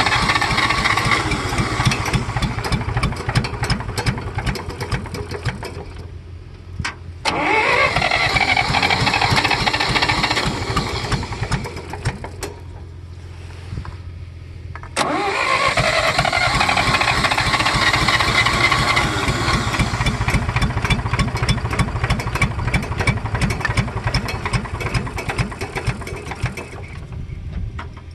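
Electric starter cranking the 1964 John Deere 1010's gasoline engine on a cold start: three long runs of cranking, each spinning up with a rising whine, with short pauses between them. The engine turns over without catching, on a tractor the owner calls temperamental and thinks may be flooded or need its carburetor cleaned.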